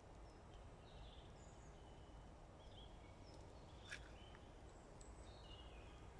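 Faint outdoor background with scattered distant bird chirps, short high notes here and there, and a single click about four seconds in.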